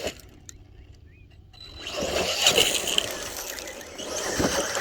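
RC short-course truck running over the dirt track, its tyres scrabbling over loose dirt: a burst that builds about a second and a half in, then a second burst near the end.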